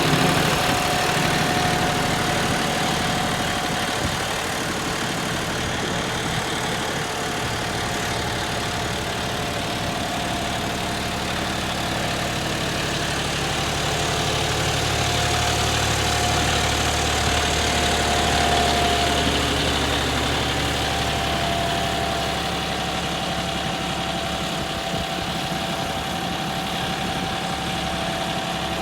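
John Deere 5210 tractor's three-cylinder diesel engine running steadily, with a steady whine above the engine note; the sound swells a little about halfway through and then settles back.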